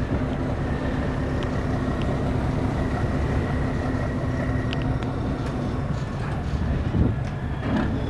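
Boat engine droning steadily, a low even hum with a faint steady whine above it.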